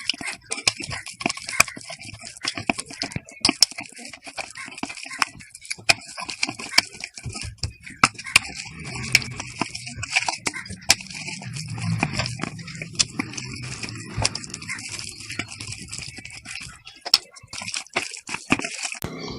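Hands working a wet spice marinade into raw chicken pieces: dense, irregular sticky squelches and clicks, with heavier handling noise partway through.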